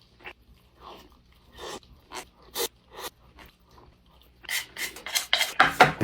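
Close-miked eating sounds from a mukbang meal of salmon and egg rice: short chewing and mouth noises, a couple a second, coming faster near the end.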